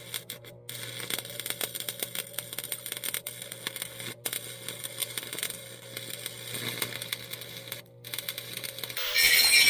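Electric arc welding on steel: a steady crackle of the arc over a low hum, breaking off briefly about half a second in, at about four seconds and near eight seconds. Near the end a much louder power tool starts abruptly.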